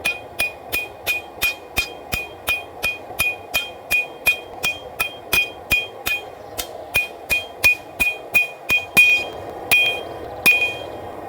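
Hand hammer striking a hot W-2 steel knife blade on an anvil, forging it out: steady blows about three a second, each with a bright metallic ring. The blows slow near the end and stop about ten and a half seconds in, over a steady rushing noise underneath.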